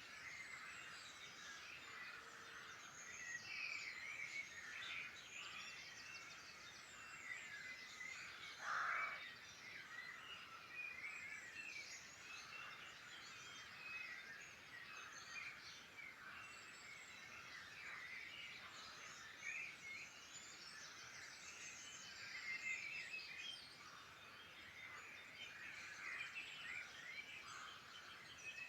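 Many songbirds singing at once, a dense chorus of overlapping chirps and trills, with one louder call about nine seconds in.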